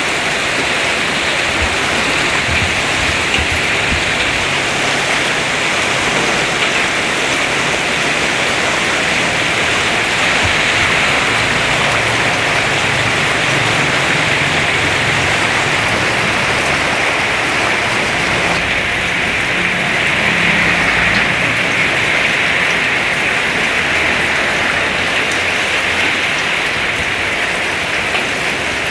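Heavy rain falling, a steady, even downpour.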